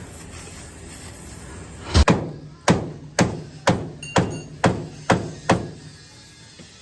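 Hammer blows on car body metal, about eight strikes at roughly two a second, each with a short metallic ring, starting about two seconds in and stopping after about five and a half seconds.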